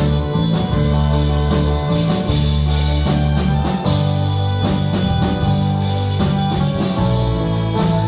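A live worship band plays an instrumental passage with drum kit, bass and guitar, loud and steady, with no singing.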